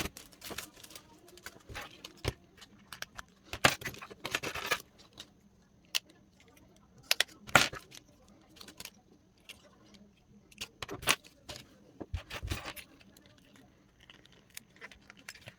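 Small objects being handled by hand: scattered light clicks and clinks, like keys or small metal pieces knocking together, with short bursts of rustling.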